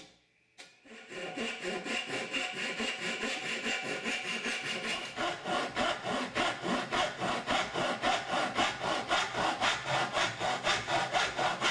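Small hand saw cutting through hard oak in quick, even back-and-forth strokes, starting about half a second in after a brief silence: sawing the tenon at the bottom of a curved chair back.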